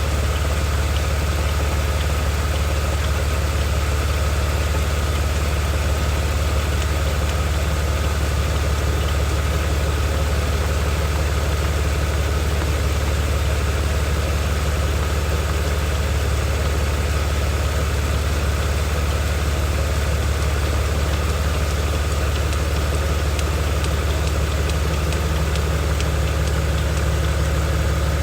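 BMW 330xi's 3.0-litre inline-six engine idling steadily, a constant low hum with no change in speed.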